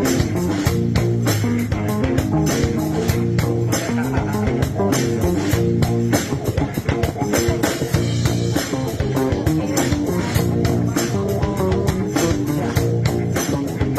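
Live band music led by a slapped electric bass line over a steady drum beat.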